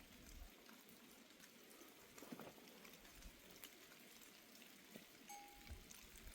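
Near silence: faint light rain with scattered small drips and ticks.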